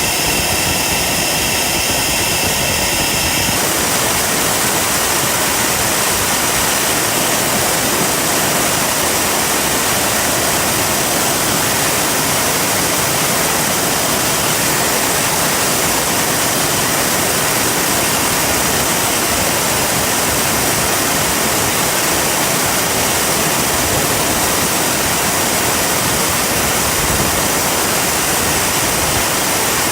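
Turbocharger-based jet engine running with a loud, steady roar. For the first few seconds a high whine rides on top, then it gives way to an even, full roar that holds steady.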